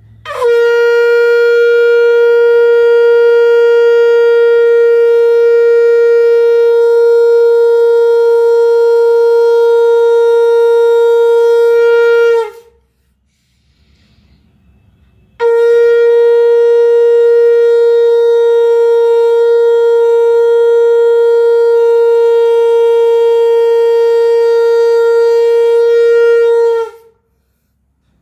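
Conch shell (shankh) blown in two long, steady blasts of about twelve seconds each, one held note that bends slightly downward as each blast ends, with a pause of about three seconds between them.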